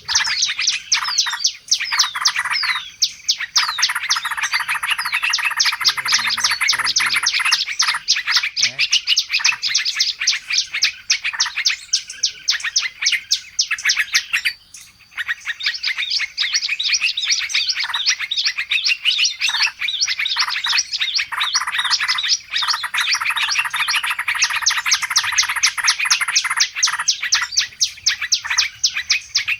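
A noisy chorus of small songbirds chirping and twittering rapidly and without let-up, a bird-lure ('pikat burung ribut') recording played to draw wild birds in. There is one short lull about halfway.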